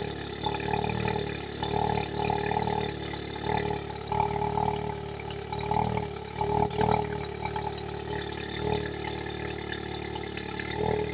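Volkswagen Golf R's turbocharged 2.0-litre EA888 four-cylinder idling shortly after a cold start, heard from inside the cabin, a steady low drone with small swells. The exhaust runs quiet, the earlier leak cured by a new downpipe.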